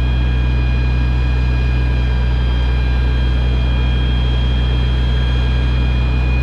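Heavy diesel engine running at a steady, unchanging speed: a loud low drone with a thin, steady high whine over it.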